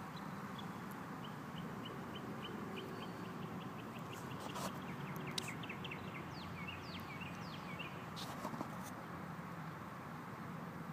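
A bird singing: a quick run of short high chirps, then several falling whistled notes, over steady outdoor background noise.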